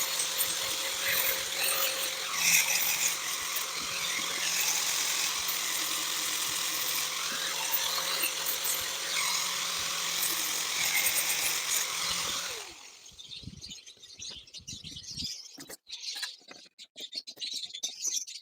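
Handheld power tool running steadily for about twelve seconds, its motor tone falling as it switches off, followed by scattered light clicks and taps.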